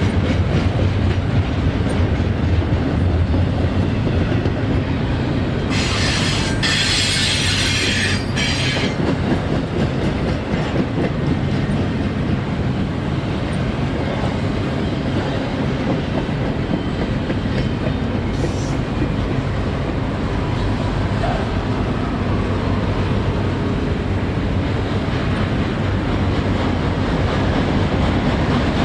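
CSX intermodal freight train rolling past with a steady rumble and the clickety-clack of its wheels. A burst of high-pitched wheel squeal comes about six seconds in and lasts a few seconds, with a brief faint squeal later.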